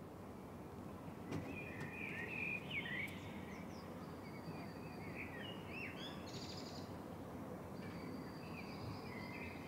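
Faint outdoor background noise with small birds chirping on and off in short bursts of quick notes.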